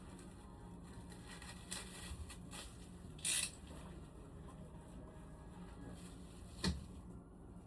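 Work noises: a few light clicks, a short hiss about three seconds in, and a sharp knock near the end, over a low steady hum.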